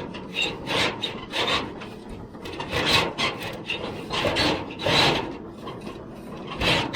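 Chimney liner pipe scraping and rasping against the inside of the flue as it is pushed down the chimney, in a series of uneven strokes about one or two a second.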